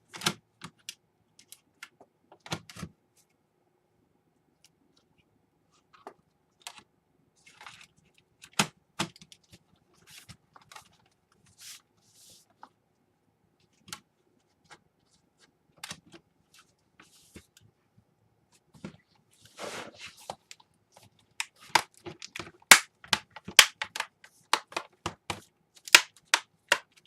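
Scattered clicks, taps and knocks of plastic laptop parts being handled and fitted back together, sparse at first and coming thick and louder over the last several seconds.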